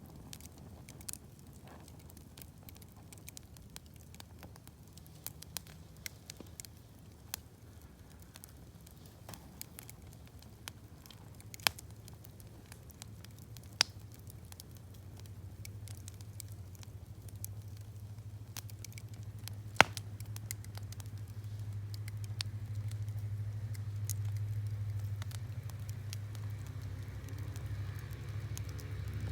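Wood campfire crackling, with scattered sharp pops, the loudest about twelve, fourteen and twenty seconds in. Beneath it a low rumble grows steadily louder through the second half.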